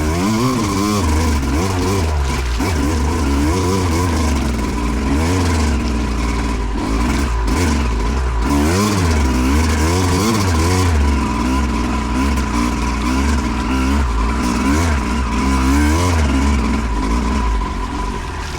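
Two-stroke 2008 Yamaha YZ250 dirt bike engine being ridden, revving up and dropping back again and again through the throttle and gear changes.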